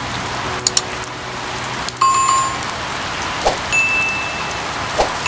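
Steady rain hiss, with two quick clicks under a second in, a short two-pitch ding about two seconds in and a higher held beep near four seconds: the click and ding effects of an animated subscribe-and-bell end screen laid over the rain.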